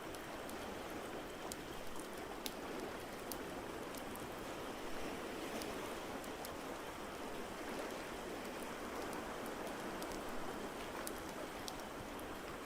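Ambience mix of a steady rushing water noise with a wood fire crackling over it in scattered sharp pops and ticks.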